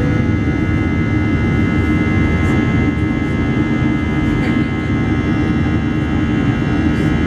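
Jet airliner engines heard inside the cabin: a steady, loud rush with several steady whining tones on top.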